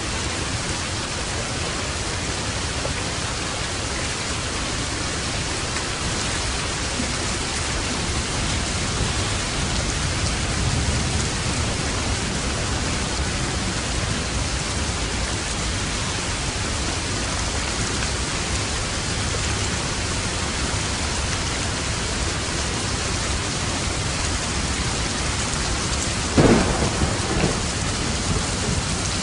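Steady heavy rain drumming on a roof, with a low thunder rumble swelling about ten seconds in and a sharp thunderclap near the end followed by a brief rumbling echo.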